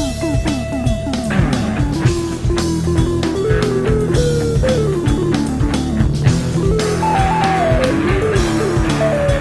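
Instrumental rock music: a bending lead-guitar melody over bass and a steady drum beat.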